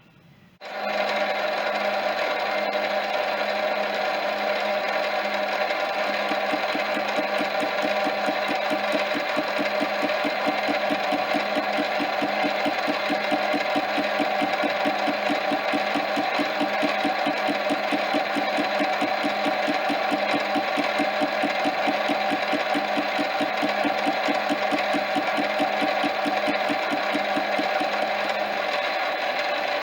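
Metal lathe starting up about half a second in and running steadily with a fast, regular ticking as the tool turns the square corners off a flat-bar link held in a 4-jaw chuck, rounding them to a slight radius.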